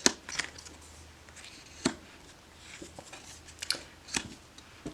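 Large glossy oracle cards being handled and flipped through, giving a handful of short, sharp clicks and snaps at irregular intervals.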